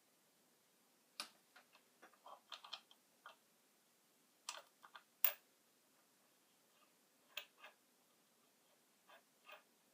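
Irregular light clicks and taps in small clusters, with a sharper click about five seconds in.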